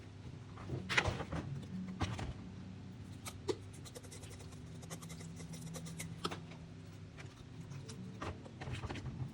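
Scattered light clicks and knocks, as of small objects being handled, over a faint steady low hum.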